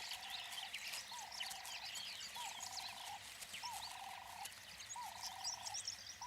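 A pulsed trilling animal call repeated about once a second, over scattered high chirps of birds or insects: natural bush ambience.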